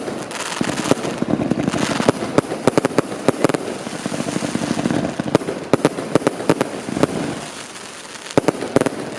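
Fireworks going off: a rapid string of sharp bangs over a steady crackling hiss, thinning to scattered bangs in the second half.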